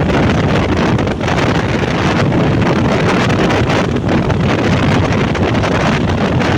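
Loud, steady wind buffeting the microphone on a moving motorbike, with the bike's road noise underneath.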